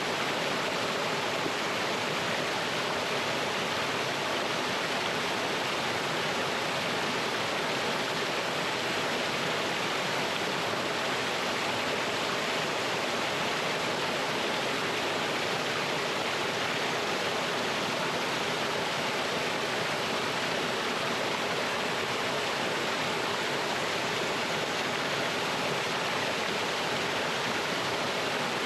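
Mountain stream water rushing and splashing over rocks in a steady, unbroken wash of noise.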